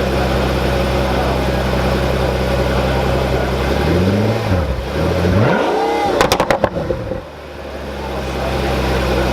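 Pagani Huayra's twin-turbo V12 idling, blipped twice about four and five seconds in, then a quick string of sharp exhaust pops and crackles as the revs drop, before settling back to idle.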